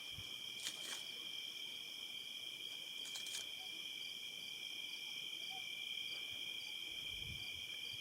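Dusk insect chorus in the savannah: a steady, continuous high-pitched trilling, with a faster, evenly pulsing trill above it. A few faint clicks come about a second in and again around three seconds in.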